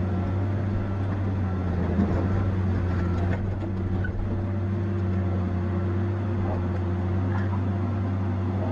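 Tigercat 870C feller buncher's diesel engine running at a steady, even pitch while working, with a few faint sharp cracks between about two and four seconds in.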